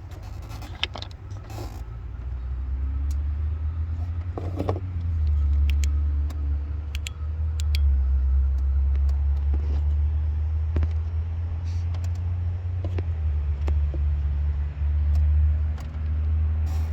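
Audi Q5's 2.0-litre turbocharged four-cylinder engine running, heard as a steady low rumble that strengthens about two seconds in, with scattered sharp clicks over it.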